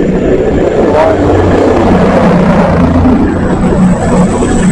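Diesel passenger train running at the station, a steady low engine hum under a dense rumble of noise, with a thin high whine coming in near the end.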